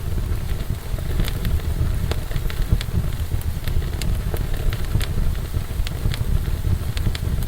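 Fire burning in a fireplace: a steady low rumble with sharp crackles popping at irregular moments, about two a second.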